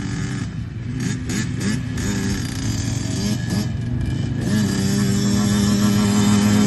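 KTM motocross bike engine revving up and dropping back several times, then held steady at higher revs for the last couple of seconds, getting louder.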